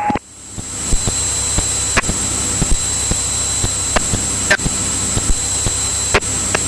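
Steady hiss and low drone of a Cirrus single-engine plane's cockpit audio heard through the headset/intercom feed between radio calls, swelling up in the first second after a transmission ends. A thin high whine runs through it, with scattered sharp clicks.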